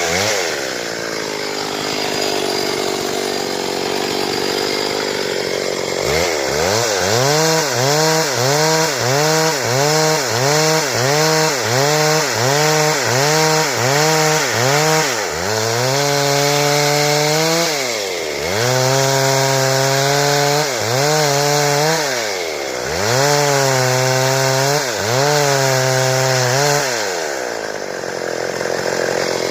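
Stihl two-stroke chainsaw cutting wood, its engine pitch dipping and recovering again and again as the chain bites into the cut and eases off. From about six seconds in the pitch wavers quickly, about one and a half times a second. Later it settles into longer pulls with a dip every three to four seconds.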